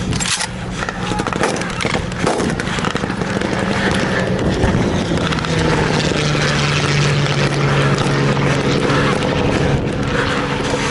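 A vehicle engine droning steadily, growing louder after a few seconds, with a few sharp cracks of blank gunfire near the start.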